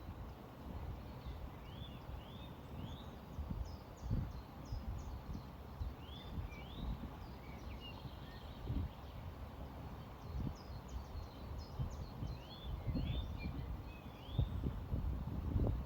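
Songbirds singing repeated phrases of three or four quick rising chirps, with thin high notes between them. Underneath is a low, uneven rumble of flowing river water and breeze that swells in gusts, most strongly near the end.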